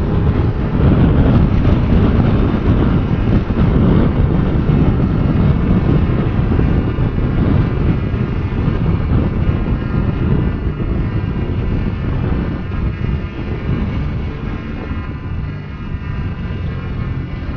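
Motorcycle engine running steadily while riding, a dense low rumble with wind noise on the microphone, easing off a little near the end.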